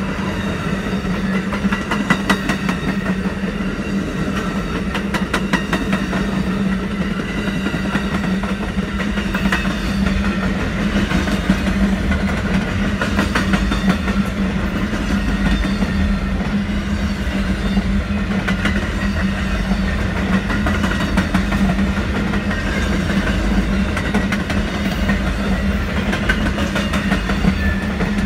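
A long Amtrak train of bi-level passenger cars and enclosed auto-carrier cars rolling past: a steady rumble of steel wheels on rail, with clickety-clack as the wheels cross rail joints.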